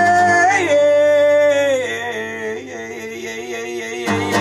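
A man's voice holding a long sung note over acoustic guitar. The note steps down about half a second in and slides lower again after a second and a half, then fades. Near the end the guitar strumming comes back in strongly.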